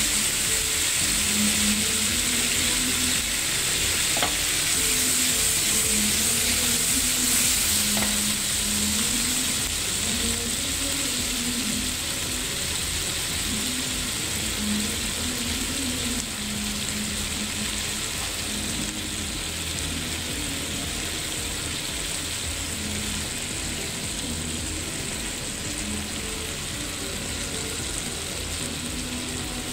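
Skewered pineapple and capsicum pieces sizzling in oil in a nonstick pan over low heat: a steady frying hiss that eases slightly after about eight seconds.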